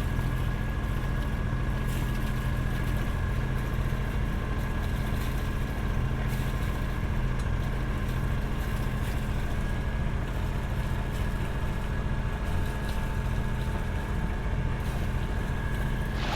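A sailboat's engine running steadily under way, a constant low drone with a faint steady whine above it.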